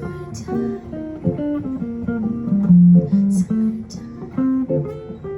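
A guitar plays an instrumental passage in C minor, mixing single-note melody lines with strummed chord stabs. It is plugged straight into the mixing desk with no amp or effects, so the tone is a little thin.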